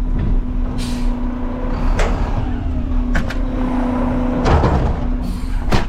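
Front-load garbage truck's engine and hydraulics running at a steady hum while a steel dumpster on the forks is slammed against the hopper, giving several separate metal bangs, the sharpest near the end.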